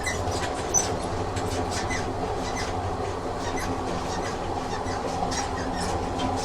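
Train sound effect: a train running on rails, a steady rumble with irregular clicks and rattles from the wheels on the track, one sharper click just under a second in.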